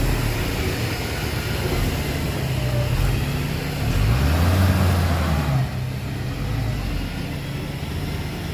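Heavy diesel engine of earthmoving machinery running, revving up and getting louder about four seconds in, then dropping back sharply a second and a half later.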